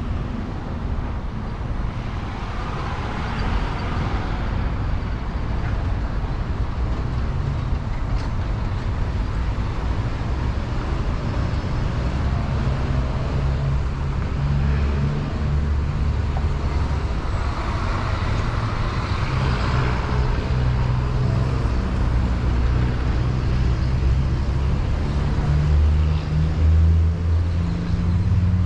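Car driving on the road: steady engine and tyre noise, with two swells of rushing hiss, the first a few seconds in and the second about two-thirds of the way through.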